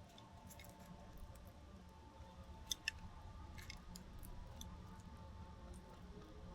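Scattered small sharp clicks and taps of birds pecking at seed on a feeder, two louder ones in quick succession a little before the middle, over a faint steady background hum.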